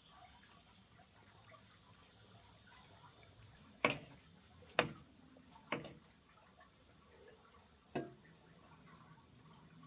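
Four sharp taps, unevenly spaced through the middle of the stretch, over a faint steady hiss.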